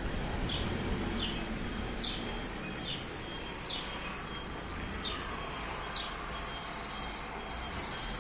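A small bird repeating a short, falling chirp about seven times, roughly once a second, over a steady low hum of outdoor background noise.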